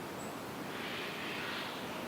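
Jungle ambience: a steady, even hiss, with a soft higher rushing sound that swells up under a second in and fades just before the end.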